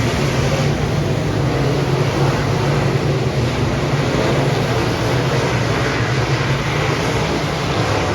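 Dirt modified race car engines running at speed, a steady, loud engine drone.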